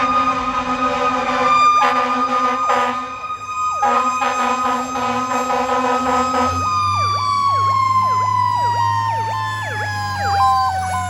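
Fire truck sirens on an emergency response: a mechanical siren held at a high steady pitch, then winding down from about six seconds in, while an electronic siren yelps rapidly over it. A loud steady horn blast, broken twice, runs through the first half and stops as the mechanical siren begins to wind down, leaving a low engine rumble underneath.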